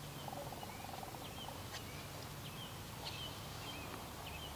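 Quiet outdoor ambience with birds chirping in the distance: short, high chirps repeated every half second or so over a faint, steady low hum.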